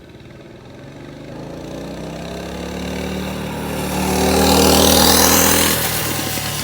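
196cc Honda-clone single-cylinder engine running through its stock muffler. The revs climb steadily for about five seconds, then fall abruptly back to idle near the end as the throttle is released.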